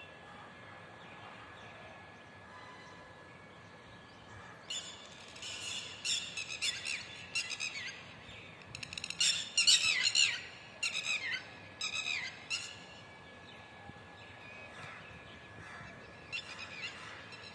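Birds calling: clusters of rapid, short chirping notes for about eight seconds, starting about five seconds in, with a few more near the end, over a faint steady high tone.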